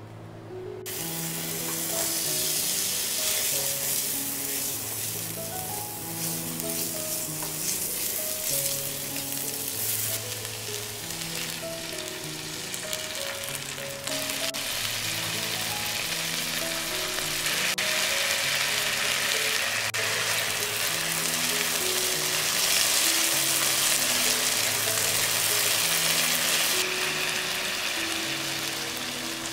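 Minced garlic and chopped onion sizzling in hot oil in a nonstick frying pan, starting about a second in. Soft background music plays throughout.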